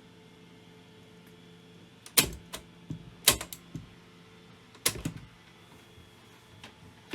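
Sharp mechanical clicks and knocks, the three loudest about two, three and five seconds in, with lighter clicks between, over a steady low hum.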